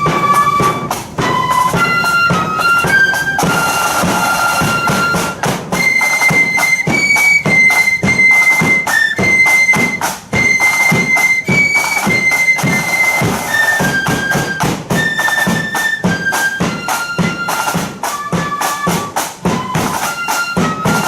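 Blood-and-thunder flute band playing a march: a high flute melody of held notes over fast, dense drumming with a low bass drum beat.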